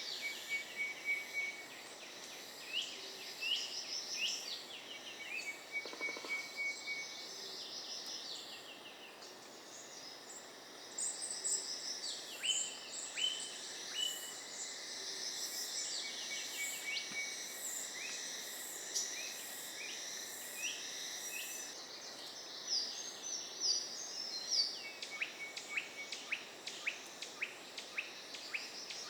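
Forest birds calling in many short chirps and quick down-slurred notes, over steady trilling and ticking insects.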